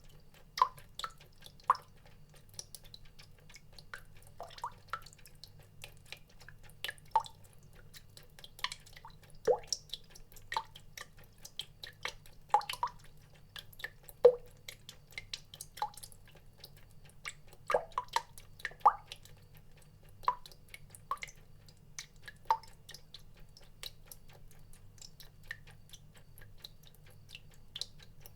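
Water drops falling one by one in an irregular patter, each a short plink with a quick slide in pitch, a few a second and unevenly spaced, over a faint low hum.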